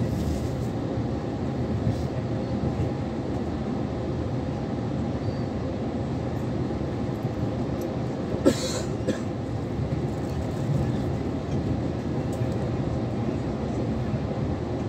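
Passenger train running, a steady low rumble heard from inside the carriage, with one brief sharp noise about halfway through.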